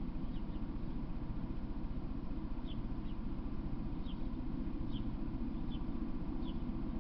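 A small bird chirping: short high notes that slide down, one or two a second at uneven gaps, over a steady low background rumble.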